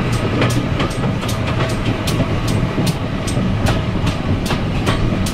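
Heritage railway coach running along the line, heard from an open window: a steady low rumble of the wheels with a regular clickety-clack, two or three sharp clicks a second, as the wheels pass over rail joints.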